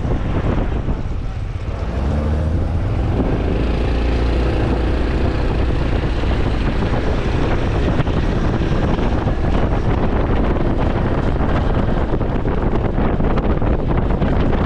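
Honda CT125 Hunter Cub's single-cylinder engine accelerating, its exhaust note rising in pitch about two seconds in, then running steadily at riding speed. Wind buffets the microphone throughout.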